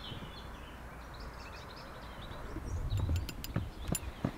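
Faint songbird chirping, with a dull knock about three seconds in and a few sharp clicks near the end.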